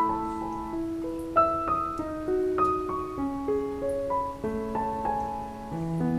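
Background piano music: a gentle melody of sustained notes changing about every half second.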